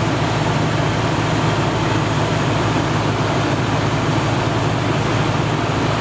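Car engine idling steadily with its air conditioning running on maximum: an even, unbroken low hum.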